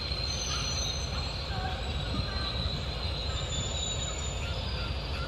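Passenger train running through the station yard: a steady low rumble with thin, high-pitched wheel squeal. The squeal holds for the first few seconds and fades out about two-thirds of the way through.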